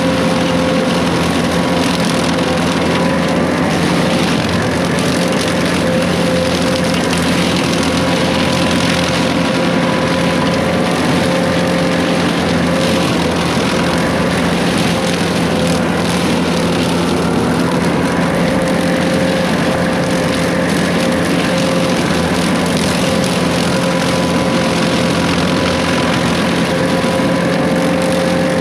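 Case 140 excavator's diesel engine running steadily under load while brush cutting, with a steady hum and a held whine from the hydraulics and cutter.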